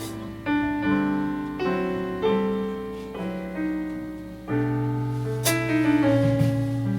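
Piano playing slow jazz ballad chords, one struck every half second to a second, with a fuller, louder chord about four and a half seconds in.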